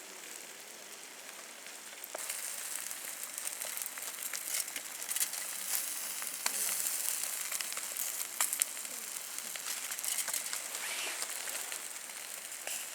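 Food sizzling in a hot pan or on a grill, starting suddenly about two seconds in as a steady hiss with scattered crackles and pops.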